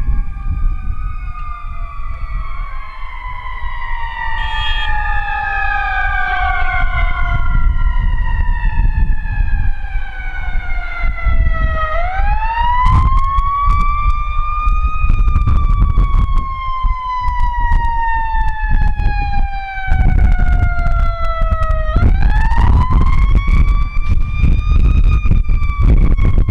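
Fire truck sirens wailing. Several overlap at first; then a single siren cycles twice, each time rising for about three seconds and falling slowly for about seven. A loud low rumble runs underneath.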